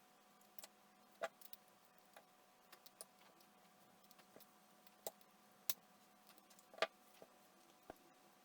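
Faint, irregular small clicks and taps, about a dozen of them, as of small tools or parts being handled on a workbench, over a faint steady hum.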